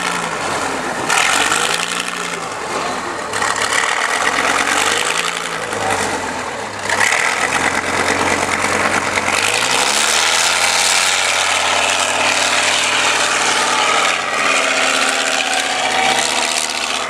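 Off-road trial truck's diesel engine revving hard, its pitch rising and falling every couple of seconds, then held at high revs for several seconds about halfway through.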